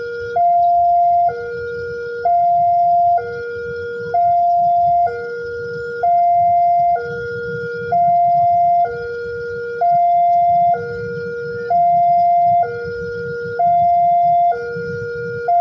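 Two-tone electronic warning siren alternating evenly between a high and a low tone, each held about a second, with a low rumble underneath.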